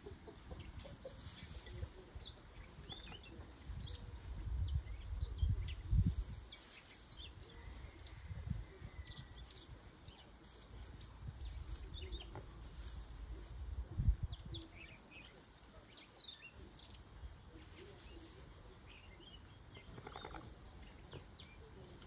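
Scattered short chirps of small birds, with low rumbles and thumps at intervals, the strongest about six and fourteen seconds in.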